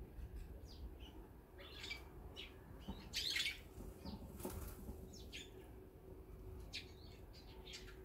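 Small birds chirping at a seed feeder in short, scattered high notes, with a brief flutter of wings a little after three seconds in.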